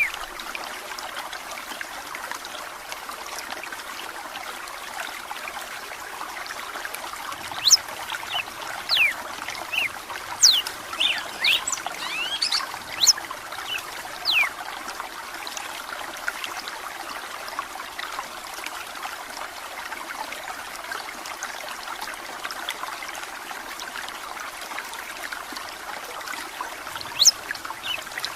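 Steady trickle of running water. From about seven seconds in, a red-cowled cardinal (galo de campina) gives a run of quick whistled notes lasting several seconds, with a few more near the end.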